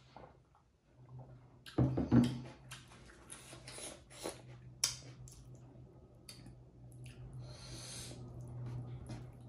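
Close-up eating sounds: chewing, lip smacks and small wet clicks as rice is mixed by hand. A drinking glass knocks down onto a wooden table a couple of times about two seconds in. A steady low hum sits underneath.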